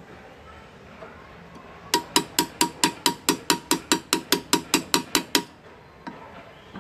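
Small hammer tapping a hand graver into metal for hand engraving: a quick, even run of about eighteen sharp, ringing metallic taps, roughly five a second, starting about two seconds in and stopping shortly before the end.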